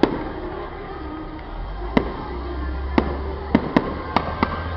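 Aerial fireworks bursting: about seven sharp bangs, one right at the start, then spaced a second apart, coming quicker near the end, over a low rumble.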